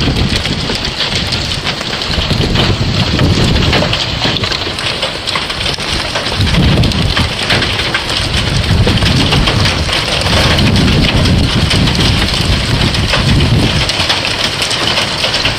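Heavy rain and wind of a severe thunderstorm, a loud steady hiss with low rumbling swells every couple of seconds.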